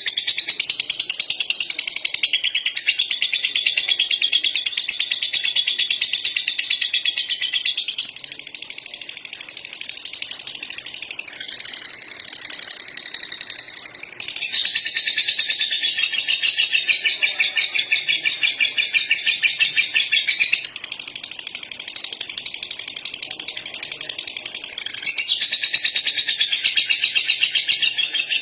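Lovebird chattering in long, unbroken runs of very rapid high trilling, each run lasting several seconds before it shifts to a new pitch, the continuous chatter known as 'ngekek' in lovebirds bred for long song.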